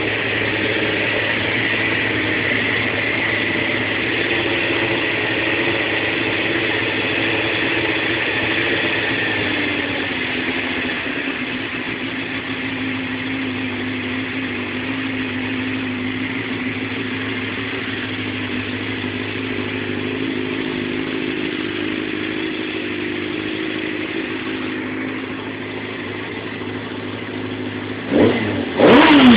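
A 2000 Suzuki GSX-R 750 inline-four, breathing through an M4 aftermarket exhaust, idling steadily. About ten seconds in the idle settles a little lower. Near the end the throttle is blipped, a quick rev that rises and falls twice.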